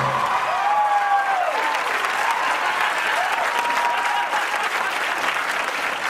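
Studio audience applauding and cheering, with a few whoops rising and falling through the clapping.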